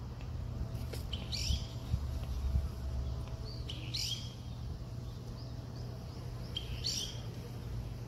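A songbird calling three times, a short high call repeated every two and a half to three seconds, over a steady low rumble.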